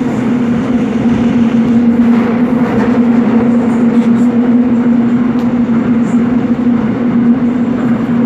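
Seoul Metro Line 7 subway train running between stations at a steady speed, heard from on board: a continuous rumble of wheels on rail with a steady low hum that holds its pitch throughout.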